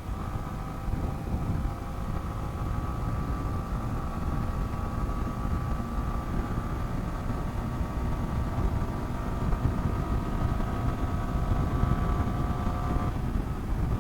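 Motorcycle running steadily at highway speed, with heavy wind rumble on the microphone and a steady droning tone that fades out about a second before the end.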